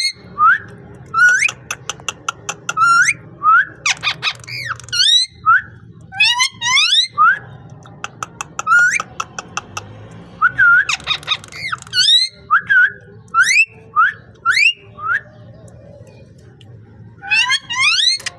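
Parrot giving a rapid string of short, rising whistles, falling silent for a couple of seconds near the end before a final burst of calls.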